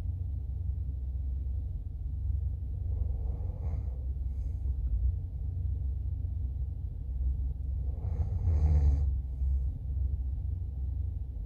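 A person asleep, snoring with slow heavy breaths that swell about every five seconds, over a steady low rumble.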